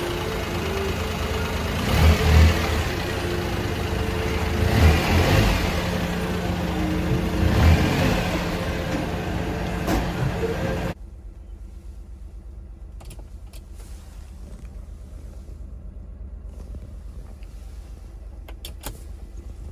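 Daihatsu Hijet mini truck's small three-cylinder engine running, blipped in three short revs about 2, 5 and 7½ seconds in. About eleven seconds in, the sound drops abruptly to a much quieter steady low hum with a few light clicks.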